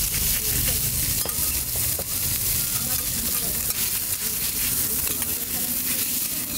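Yaki ramen (fried ramen) noodles sizzling as they are stir-fried, a steady hiss with occasional light clicks.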